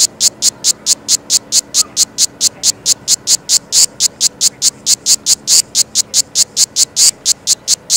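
Australian cicada calling: a loud, high-pitched buzz broken into even pulses at about five a second.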